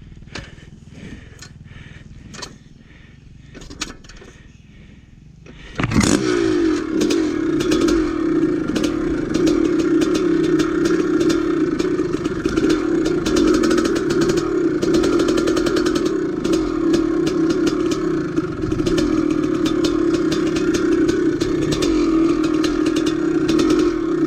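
A few faint clicks and knocks, then about six seconds in a dirt bike engine comes in suddenly and keeps running at a steady, nearly unchanging pitch, with a rattly clatter over it.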